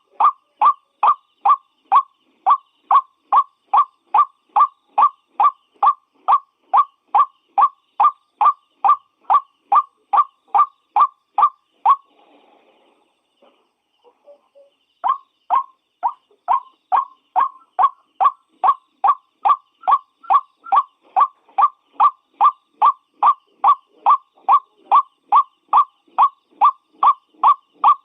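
White-breasted waterhen calling: a single short note repeated about two and a half times a second, broken by a pause of about three seconds near the middle before the calls resume.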